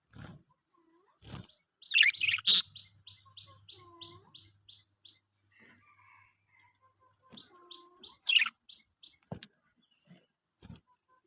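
Pet budgerigars chirping: a loud burst of harsh chirps about two seconds in, then a quick run of short, evenly repeated high notes, about four a second; the pattern comes again, less loudly, near eight seconds in, with a few sharp clicks between.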